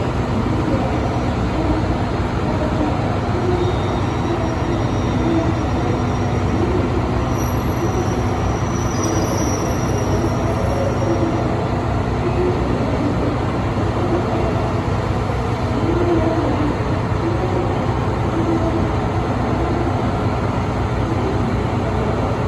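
Diesel engines of a KiHa 183 series express railcar train idling steadily at a low, even drone.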